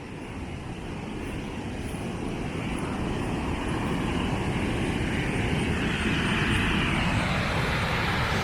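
The Lower Falls of the Genesee River: a waterfall's steady rushing roar that grows louder throughout as the falls are approached.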